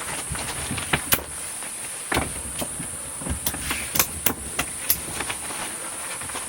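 Irregular sharp clicks and knocks of camping gear being handled and adjusted, over a steady high insect drone.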